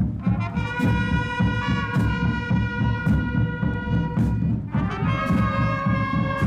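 Live brass band playing: the brass holds long chords over a steady drum beat, moving to a new chord about five seconds in.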